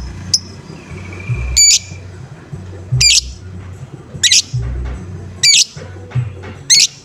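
A lovebird giving loud, harsh, high-pitched calls, five in a row about one and a quarter seconds apart, with a brief thin whistle just before the first. This is the 'ngoek' call used as a lure to set other lovebirds calling. A low rhythmic hum runs underneath.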